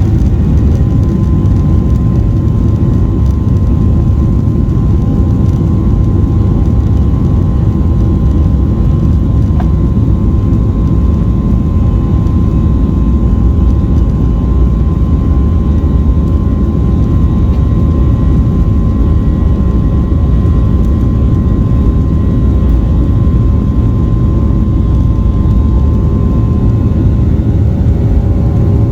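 Boeing 737 jet engines heard from inside the passenger cabin: a loud, steady low rumble with a steady engine whine over it.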